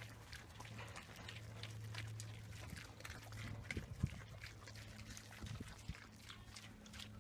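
Faint grunting of a hungry pig amid scattered clicks and rustling, over a steady low hum, with a single knock about four seconds in.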